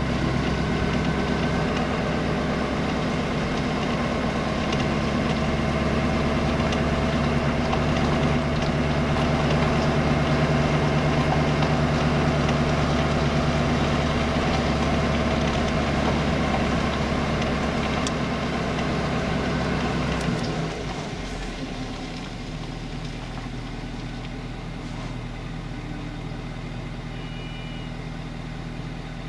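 A vehicle's engine running at low speed, close by, on a gravel road. About twenty seconds in, the engine note drops back and the sound gets noticeably quieter, as if the vehicle eases off or stops.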